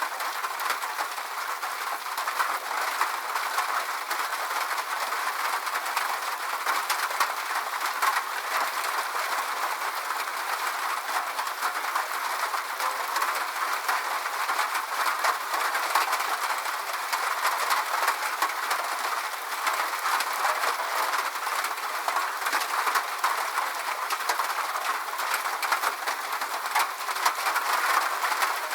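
Steady rain falling, a dense even hiss of countless drops with small clicks from individual drops and no low rumble.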